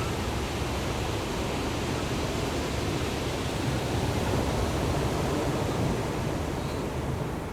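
Ocean surf: a steady wash of breaking waves that swells slightly around the middle.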